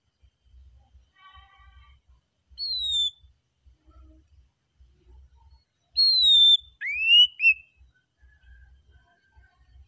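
Oriental magpie-robin singing slow, spaced whistled phrases: a falling whistle about two and a half seconds in, then a louder falling whistle around six seconds followed at once by two short notes that rise and fall.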